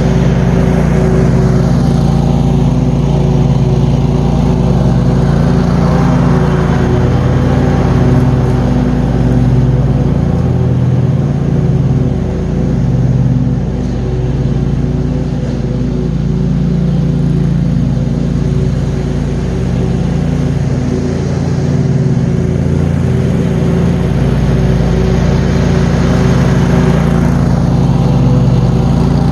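John Deere QuikTrak 652R stand-on mower running steadily while mowing: a constant engine hum under a broad hiss.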